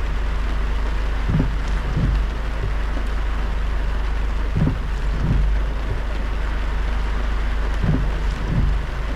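A car driving in heavy rain: a steady hiss of rain and tyre spray over low road rumble. Pairs of dull low thumps come about every three seconds.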